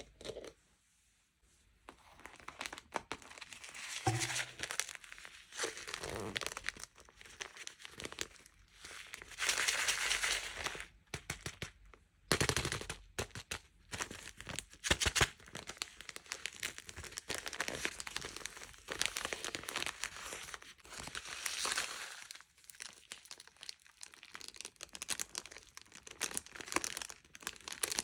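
Plastic packaging crinkling and tearing as sweets or toys are unwrapped by hand, with many small crackles and clicks. It is quiet for about the first two seconds.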